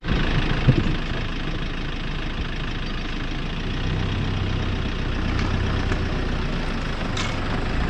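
Vehicle engine running steadily under a low rumble and noise, with a low engine note coming up about four seconds in.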